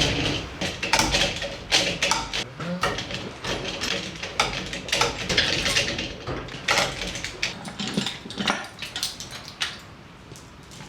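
Irregular metallic clicks, knocks and clunks, many sharp and closely spaced, thinning out near the end: hand work with tools and hoist gear around an engine and gearbox hung from engine hoists.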